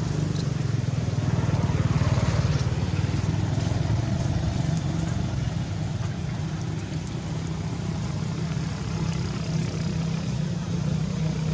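A steady low engine hum, like a vehicle motor running, under a general outdoor noise haze.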